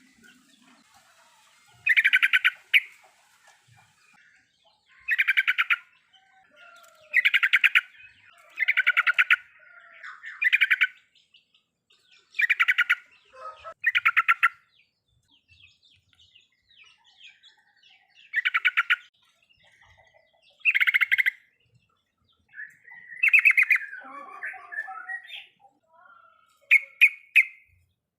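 Sooty-headed bulbul (trucukan) giving its 'riwikan' chatter: short bursts of fast-repeated notes, each about a second long, coming every two to three seconds. Near the end there is a looser, more varied run of notes.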